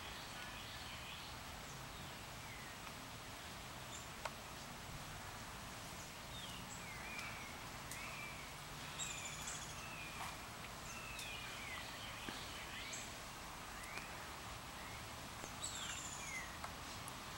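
Birds chirping in the background, several short whistled notes that glide up and down, some high and thin, over a steady hiss.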